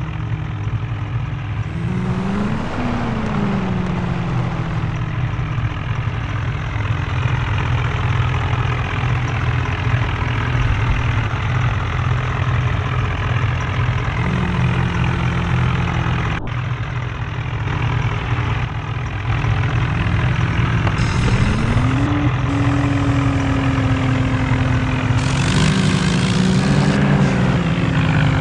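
Diesel tractor engines running under load, revving up a few times: a brief rise about two seconds in, then longer rises near the end.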